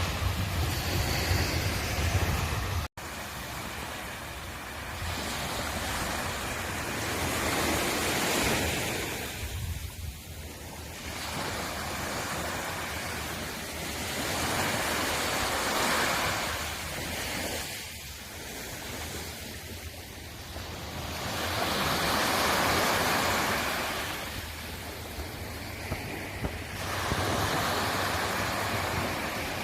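Sea waves breaking and washing up the shore, the surf swelling and fading about every six seconds. A low rumble runs under the first few seconds and stops at a brief cut in the sound.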